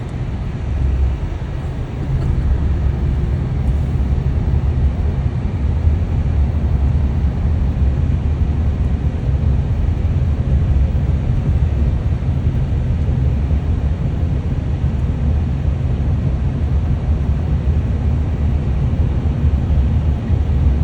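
A car's steady low engine and tyre drone heard from inside the moving car, growing louder about two seconds in and then holding steady.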